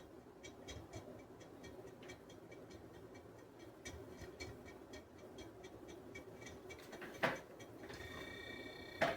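BLDC-driven refrigerator compressor running faintly: a low hum with light, regular ticking about three to four times a second. Two louder knocks come about seven seconds in and near the end, and a steady high whine joins after about eight seconds.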